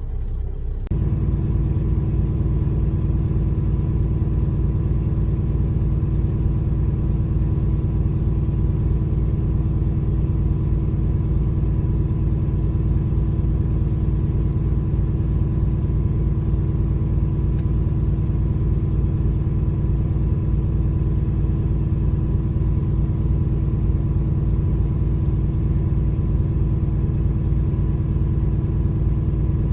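Truck diesel engine steps up about a second in to a steady, faster idle and holds there: the engine raising its speed as a parked DPF regeneration begins.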